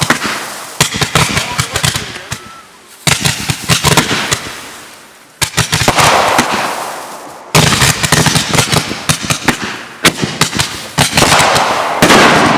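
Consumer fireworks going off: about five loud bangs, one every two to three seconds, each followed by a spray of crackling that fades away.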